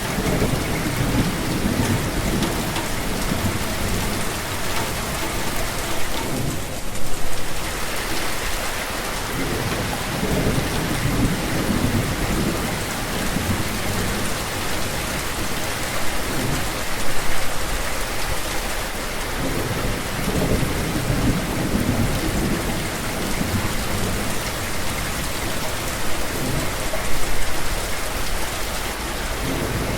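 Steady heavy rain falling, a dense even hiss, with low rumbles swelling and fading every few seconds.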